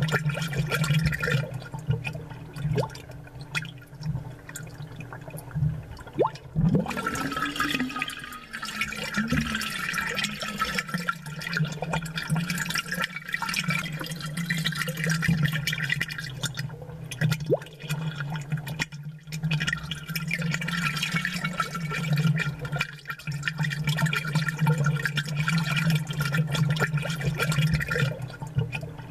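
Aquarium water bubbling: air bubbles rising and popping in the tank, with many small ticks and gurgles over a steady low hum.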